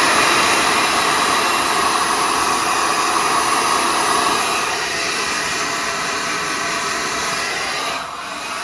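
Heat gun blowing steadily, warming the edge of a steel car bonnet so the dent can be bent out without cracking the paint. It gets a little quieter about five seconds in and winds down near the end.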